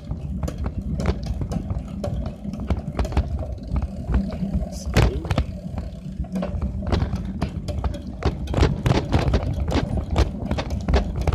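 Loose items in a bicycle basket and the handlebar-mounted phone rattling and shaking as the bike rides over rough ground. Quick, irregular clicks and knocks run over a low rumble.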